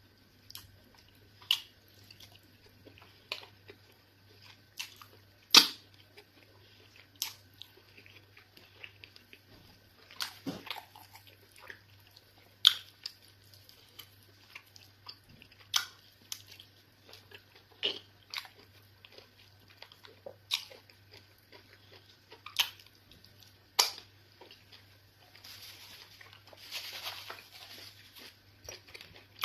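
Close-miked eating sounds of fufu and egusi soup: sharp wet mouth smacks and chewing clicks at an uneven pace, about one every second or two, with a softer, longer smacking stretch near the end.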